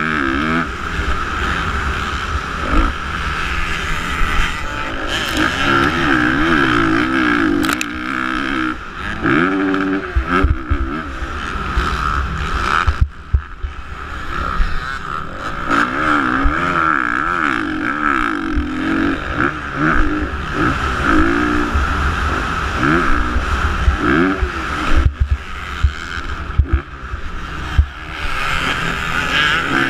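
Motocross bike engines revving hard, the pitch climbing and falling again and again with throttle and gear changes, with wind rumble on the microphone. The engine sound briefly drops away twice, about 13 and 25 seconds in.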